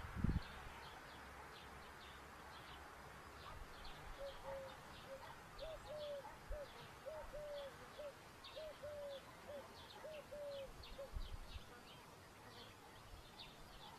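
Faint bird calls: a run of short hooting notes, loosely grouped in twos and threes, from about four seconds in until near the end, over scattered faint high chirps.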